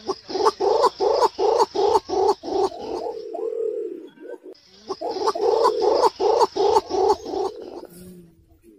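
Green imperial pigeon calling: two bouts of rapid, evenly spaced deep notes, about three a second, with a longer drawn-out note between them.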